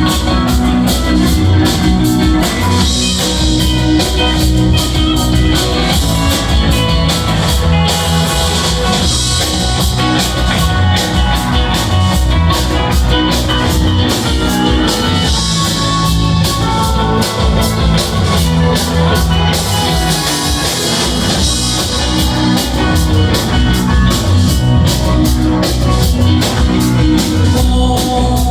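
Rock band playing live: electric guitars, bass and drum kit in a loud instrumental jam with a steady beat, recorded from the audience.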